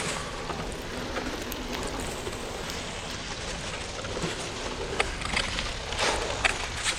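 Steady hiss and crunch of a bicycle on studded winter tyres rolling over hard-packed snow, with a short click about five seconds in.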